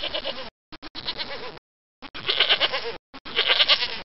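Goat bleating: a run of four wavering bleats, each under a second long, with the last two loudest. Each call breaks off abruptly into dead silence before the next.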